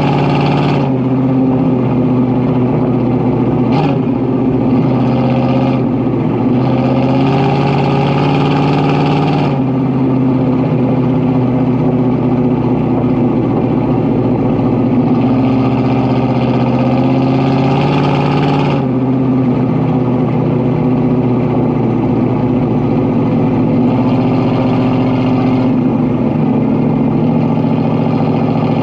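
Ford 400 V8's exhaust running steadily under way. Twice the note grows harsher and hissier for a few seconds, then settles back.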